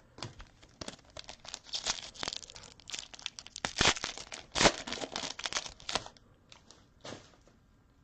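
A football trading-card pack wrapper being torn open and crinkled: a run of sharp crackles and rips lasting about five seconds, loudest near the middle, dying to a few faint ticks near the end.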